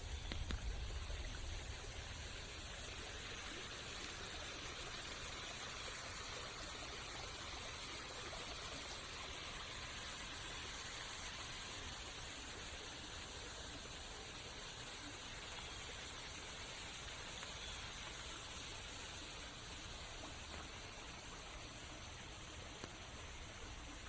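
Steady rain falling, an even hiss with no breaks, and a brief low rumble in the first couple of seconds.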